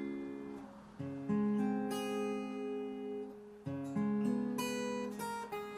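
Acoustic guitar playing the song's intro: chords struck and left to ring, with a new chord about a second in and another near four seconds.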